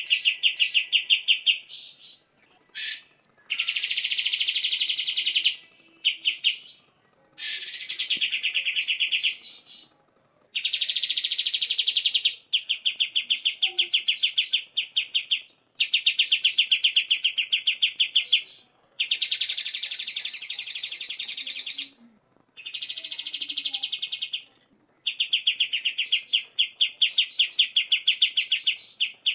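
White-rumped shama (murai batu) singing: phrase after phrase of fast repeated notes, each one to three seconds long with short breaks between, and a few sharp rising whistles.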